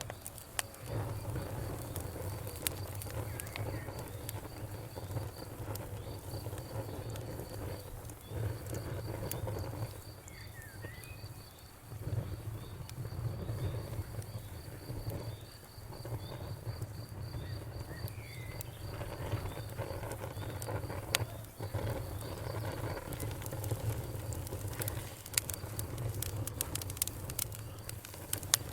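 Wood fire crackling: scattered sharp pops and snaps over a low, steady rumble of the flames, with the pops coming thicker near the end. An insect chirps at a high, even pulse in the background and stops about three-quarters of the way through.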